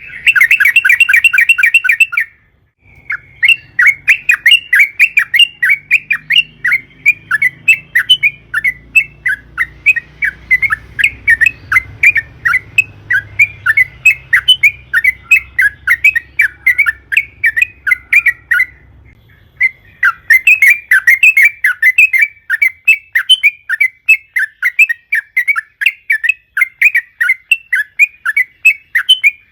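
Yellow-vented bulbul singing a long, rapid chatter of short bubbling notes, several a second, with two brief pauses.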